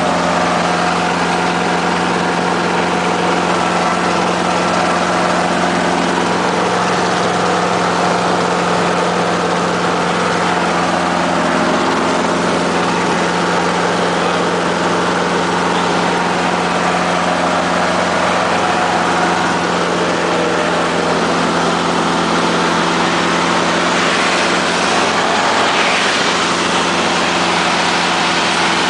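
Helicopter running steadily in flight: a constant engine and rotor drone with several steady pitched hums.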